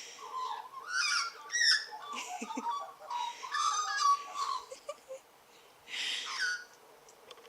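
Magpies warbling and chattering: a run of varied chirps, whistles and rasping notes for about five seconds, then one harsh rasping call about six seconds in.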